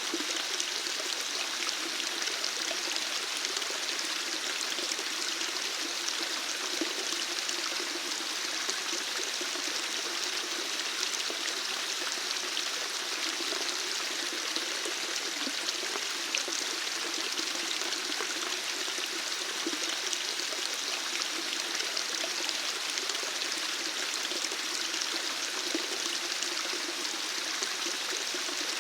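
Running water flowing steadily, an even rushing hiss that does not change.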